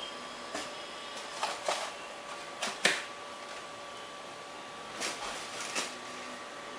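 Handling noise from the parts of a foam RC glider kit being picked up and moved: a scatter of light clicks and knocks, the loudest near the middle. Under it runs a faint steady hum.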